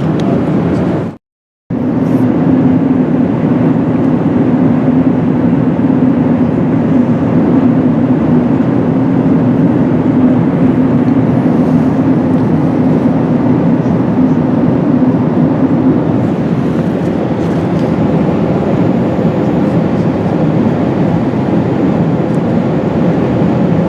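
Airbus A380 cabin noise during descent: the steady drone of engines and rushing airflow, heard from inside the passenger cabin, with a strong low hum. The sound cuts out completely for about half a second, a little over a second in.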